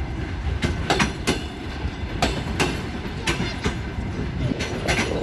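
Passenger coaches of a departing express train rolling past at low speed, their wheels clicking over rail joints in pairs about once a second above a steady low rumble.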